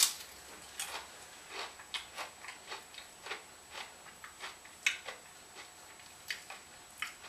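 Tortilla chip being bitten and chewed: a sharp crunch at the first bite, then a run of irregular crisp crunches, roughly two or three a second.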